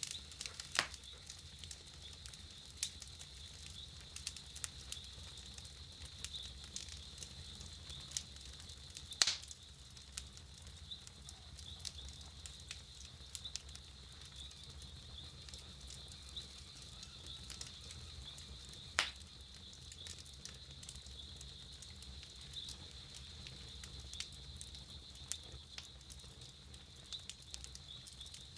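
Wood campfire crackling, with irregular small snaps and a few louder pops: one about a second in, one around nine seconds in and one around nineteen seconds in.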